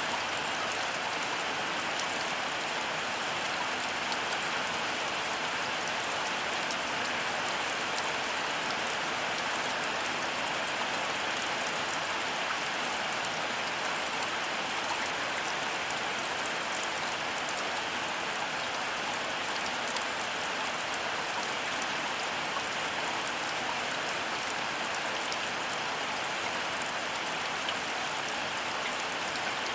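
Heavy rain falling steadily: a dense, even hiss with the fine patter of drops, unchanging throughout.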